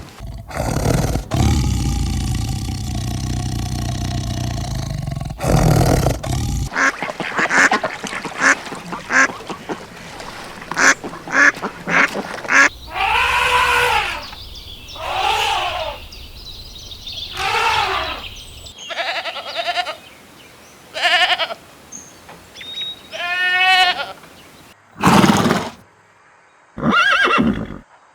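A series of different farm animal calls, one after another with short gaps. Around the middle come three similar arching calls about two seconds apart.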